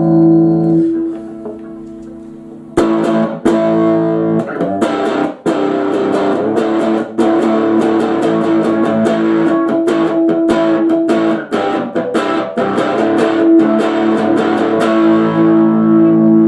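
1966 Fender Telecaster electric guitar being played. A ringing chord fades out in the first second. About three seconds in, a run of strummed and picked chords and notes starts, and it ends on a chord left ringing.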